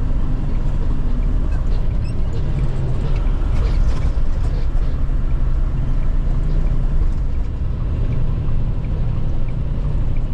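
International LT semi truck running at highway cruise, heard from inside the cab as a steady low diesel engine drone mixed with road noise.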